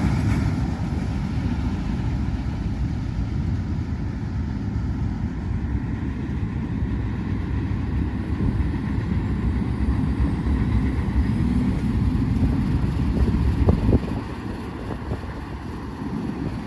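Train rolling past, a steady low rumble that drops off after a brief knock near the end.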